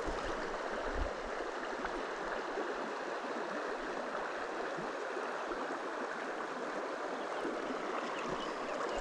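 A shallow stream running and rippling steadily over its bed.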